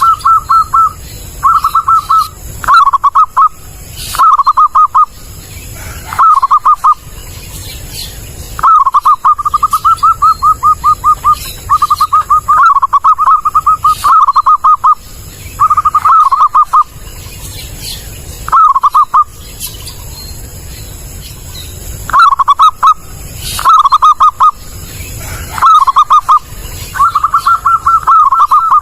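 Zebra dove (perkutut) giving its loud, clear staccato cooing: short bursts of rapid pulsed notes, repeated with brief pauses, some phrases running on longer.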